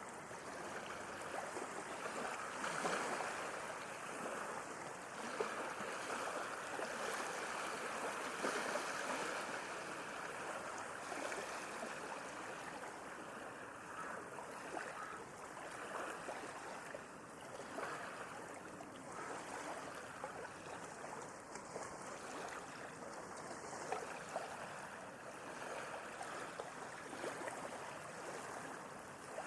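Sea waves washing in, a continuous rush of water that swells louder in the first few seconds and then eases off.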